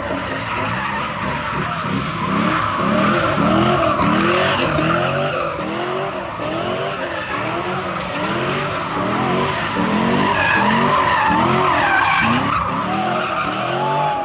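A car doing donuts with its tyres screeching continuously, its engine revving up and down over and over, a little more than once a second.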